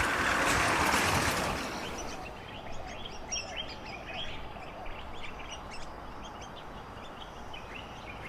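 Birds calling: after a rush of wind-like noise in the first two seconds, a busy run of short, quick, high chirps from several birds.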